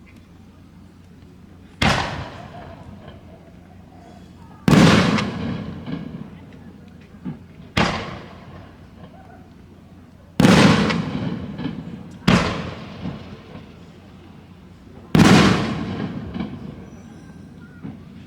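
Aerial firework shells bursting: six booms a few seconds apart, each followed by a rumbling echo that dies away over a second or two.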